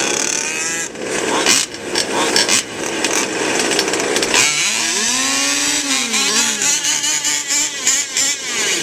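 Several fifth-scale RC trucks' small two-stroke gas engines revving, their throttles blipped so the overlapping whines rise and fall. About halfway through, one engine rises and falls in pitch over about two seconds.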